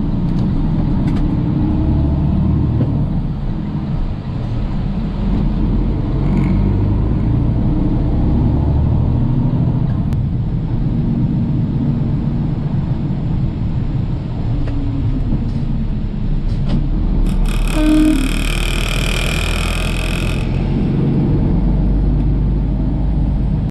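Steady low rumble of a vehicle on the road, with a horn sounding for about three seconds roughly three-quarters of the way through.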